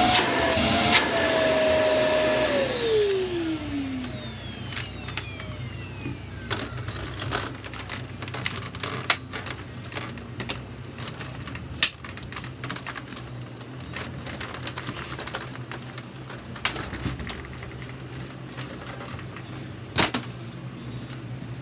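Shark Rotator Lift-Away Professional vacuum cleaner running, then switched off about two and a half seconds in, its motor whine falling in pitch as it spins down. After it stops come scattered clicks and knocks over a low steady hum.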